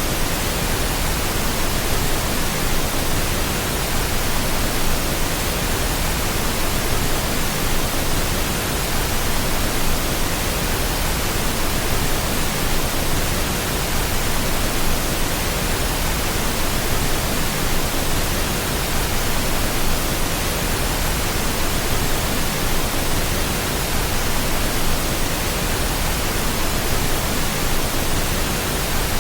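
Steady pink noise: an even, unchanging hiss that covers low and high pitches alike.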